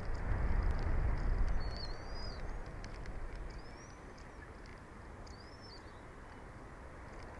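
Wind rumbling on an outdoor microphone, strongest in the first couple of seconds and easing after. Faint high, wavering bird chirps sound three or four times over it.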